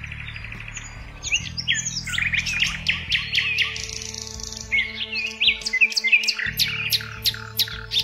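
Songbirds chirping and singing: a tangle of varied chirps and down-slurred notes, then a quick run of sharp chip notes near the end, over a low steady drone.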